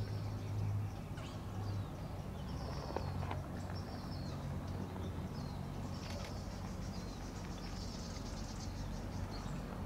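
Birds chirping and calling in short, scattered phrases over a low, steady hum.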